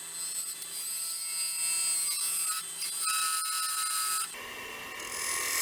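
Wood lathe spinning a resin-and-pecan-shell bowl blank while a tool cuts it, a steady high-pitched whine over a hiss. The sound shifts about four seconds in.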